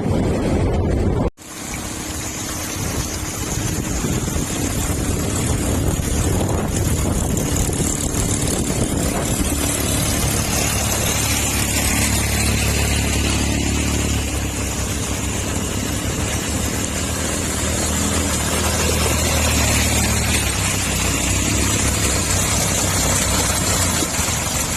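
Wind noise on the microphone, then a sudden cut about a second in to an engine running steadily at an even speed.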